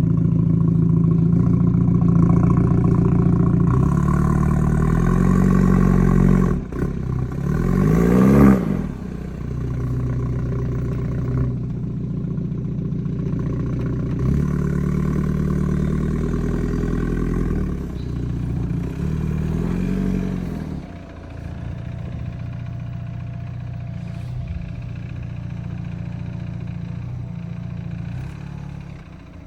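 BMW engine and exhaust running, revs swelling up and falling back twice, with the sharpest rise and fall about eight seconds in and another around twenty seconds, then settling to a steadier, lower drone for the last third.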